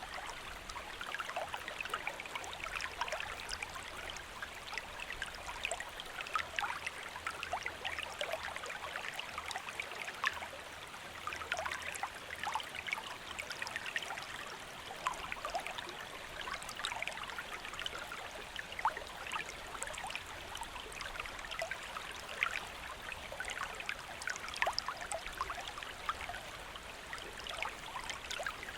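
Stream water flowing and babbling steadily, with many small splashes and gurgles over a continuous rush.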